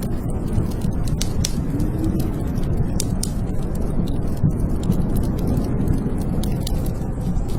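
Blizzard wind howling steadily, its low moaning tones swelling and falling, with a wood fire crackling in sharp pops and snaps over it.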